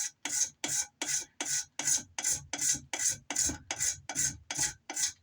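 A blade scraping fine shavings off a chunk of resin-rich fatwood, in short rasping strokes at about three a second.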